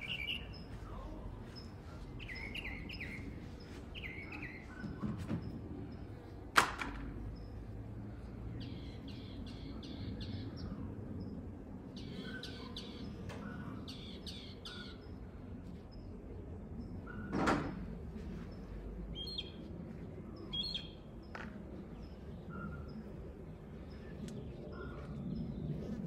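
Small songbirds chirping, with short calls and quick runs of four or five repeated notes, over a faint steady low rumble. A single sharp click comes about six and a half seconds in, and a brief rushing noise comes around seventeen seconds.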